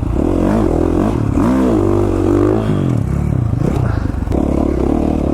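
KTM 450 dirt bike's single-cylinder four-stroke engine running as the bike is ridden, its pitch rising and falling as the throttle is worked, with one longer rev that climbs and drops off about a second and a half in.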